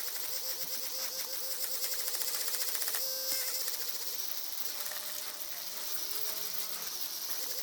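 Small electric polishing tool with a buffing head running against a clear plastic part, giving a fast, rattling whir, while the part is polished with medium-grade compound.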